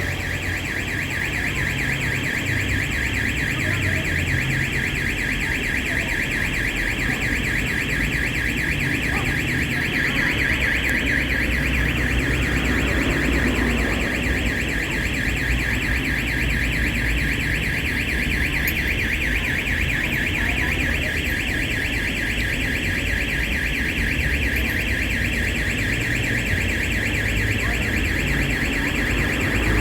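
Electronic alarm sounding continuously: a loud, rapidly pulsing high tone centred around 2 kHz, with no break or change.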